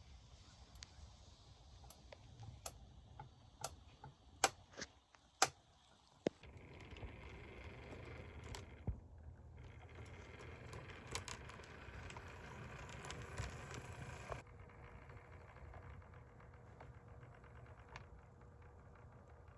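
HO scale model train running on its track: a steady low running noise with scattered clicks, after a first stretch of sharp, irregular clicks and taps. The running noise thins out about two thirds of the way through.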